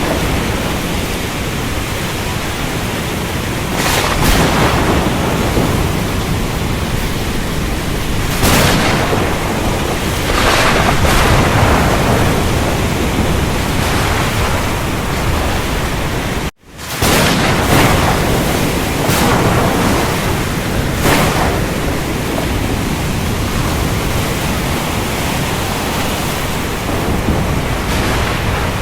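Steady, dense rain with thunder swelling up every few seconds. About two-thirds of the way through, the sound cuts out for an instant and comes straight back.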